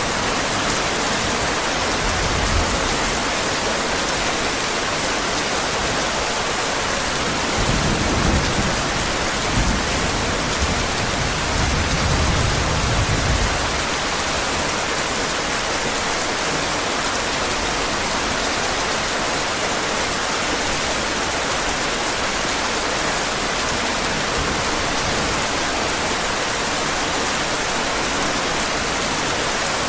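Heavy rain falling steadily, with a low rumble of thunder rolling for several seconds about a quarter of the way through.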